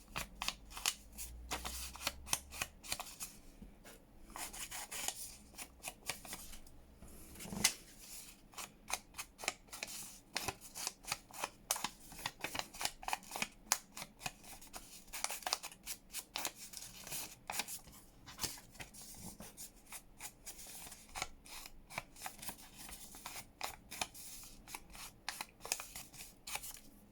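An ink pad being rubbed along the edges of torn paper pieces: rapid, repeated scratchy rubbing strokes, with one sharper knock about eight seconds in.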